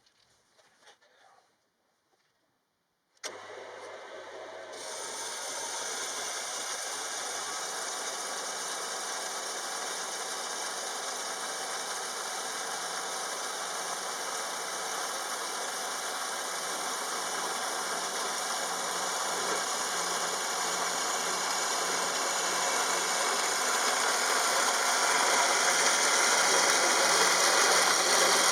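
Steady mechanical noise that starts suddenly about three seconds in and grows slowly louder, like a machine or power tool running.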